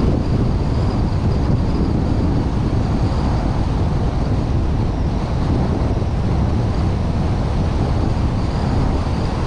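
Steady running noise of a car on the road: engine, tyre rumble and wind rush, heard through a GoPro on a suction-cup mount, with wind buffeting the microphone.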